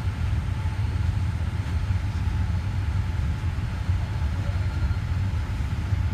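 Steady low drone inside the cabin of a Boeing 787-8 Dreamliner airliner before takeoff, even and unchanging throughout.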